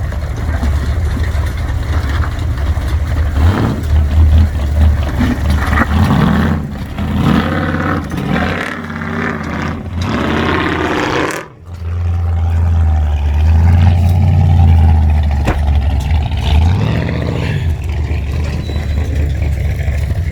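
Off-road vehicle engine running and revving at low speed while rock crawling, its low rumble rising and falling with the throttle. The sound breaks off briefly about halfway through, then resumes.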